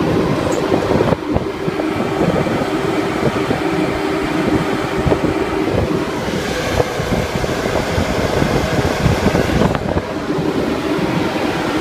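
Midea air conditioner condenser units running with a steady hum, with wind buffeting the microphone.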